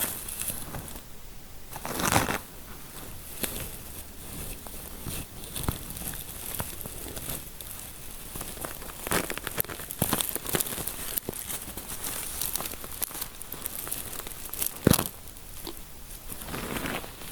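Close-miked fingers rubbing and scratching in a scalp massage, making an irregular crinkling, crackling scratch with a few louder rubbing swishes, the loudest about two seconds in and near the end.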